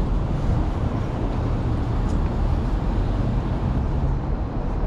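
Steady low rumble of city road traffic mixed with wind buffeting the microphone while cycling.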